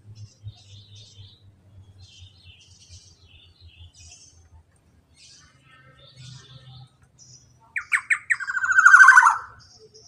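Black-naped oriole (kepodang) calling: faint scattered high chirps, then near the end a loud rapid trill of notes lasting about a second and a half, falling slightly in pitch toward its close.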